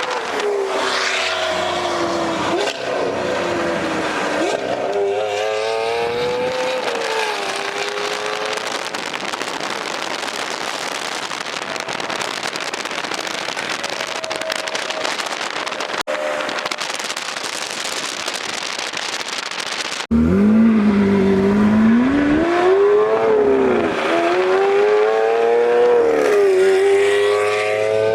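Lamborghini Aventador SV's V12 with a catless, straight-piped exhaust, revving and accelerating, its pitch rising and falling. A stretch of rushing noise with little pitch sits in the middle. About twenty seconds in, a sudden cut brings the engine louder, revving up and down several times.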